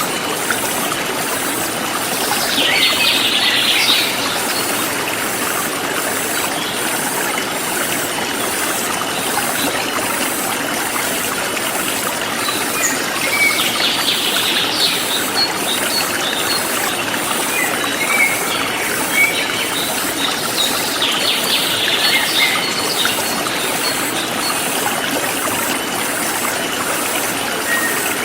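A forest stream flowing steadily, with birds chirping in a few scattered bursts and a high, evenly pulsing insect chorus behind.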